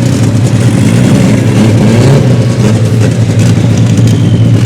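Loud car engine running, with a steady low hum and a brief rise in engine pitch partway through, as the engine is revved.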